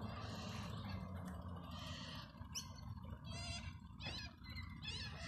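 Birds calling: several bouts of quick chattering calls, starting about two seconds in.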